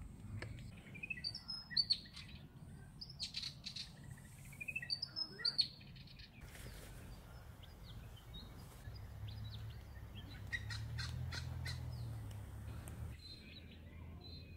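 Birds chirping in short, repeated calls, with a run of quick clicks and a low hum in the second half.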